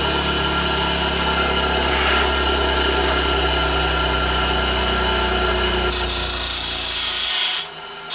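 Black & Decker No. 605 bench grinder's motor running with a steady mains hum. About seven seconds in the hum cuts off while a whirring noise carries on.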